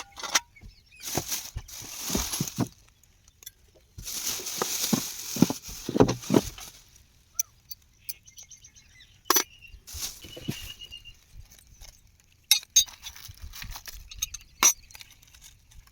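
Hard parts being handled during unpacking and assembly of a power weeder: scattered clinks and knocks, with two longer stretches of scraping and rustling in the first half.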